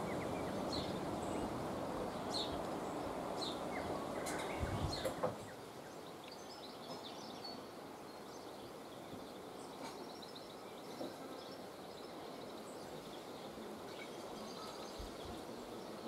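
Small birds chirping: short high calls about once a second over a steady low background rumble that cuts off suddenly about five seconds in, followed by quieter, faint runs of high chirps.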